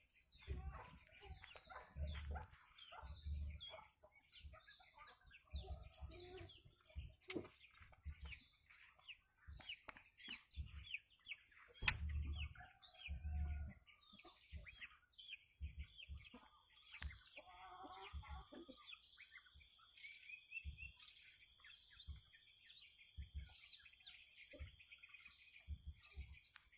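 Birds chirping and calling in many short notes, with scattered low thuds. From about halfway through, a steady high-pitched buzz joins.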